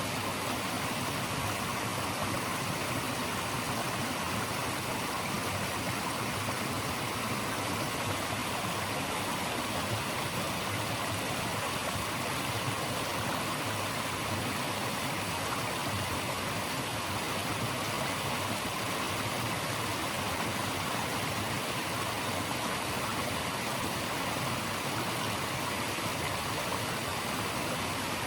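Stream water rushing steadily, an even, unbroken hiss of flowing water.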